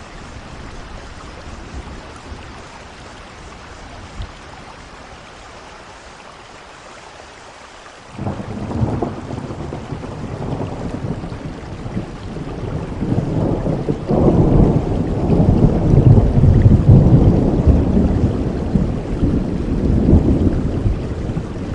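Steady rainfall. About eight seconds in, a long low rumble of thunder starts suddenly and builds, loudest in the second half, easing a little near the end.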